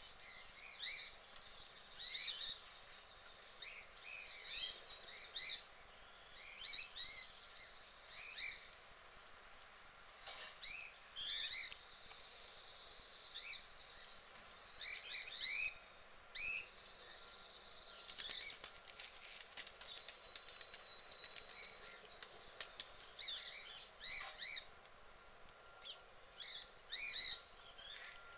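Small birds chirping, short call notes repeated again and again with gaps between them. About two-thirds of the way in, a fast run of fine clicks with a thin high held tone lasts a few seconds.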